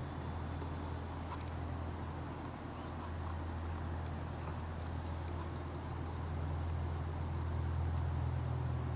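Steady low hum of the T-6 Texan II's Pratt & Whitney PT6A turboprop running before takeoff, growing a little louder near the end, with faint high chirps over it.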